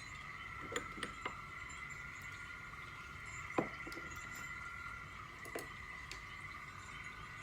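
A few light clinks over a faint, steady high-pitched tone: three close together in the first second or so, a louder one about halfway through, and one more a couple of seconds later.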